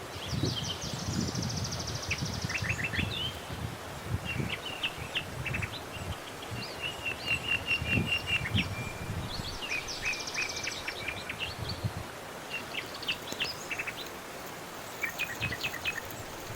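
Small birds chirping and calling, with quick high trills about half a second in and again about ten seconds in, over an irregular low rumbling noise.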